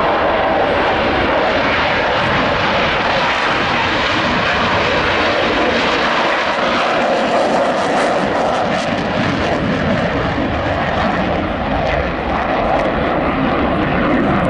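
Jet aircraft engines, a loud steady rushing noise with no break, dipping slightly for a moment late on.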